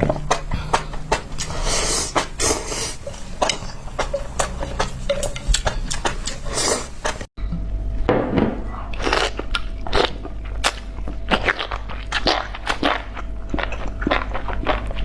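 Close-miked chewing of spicy enoki mushrooms: a rapid, dense run of wet, crunchy clicks and smacks. The sound drops out for an instant about seven seconds in.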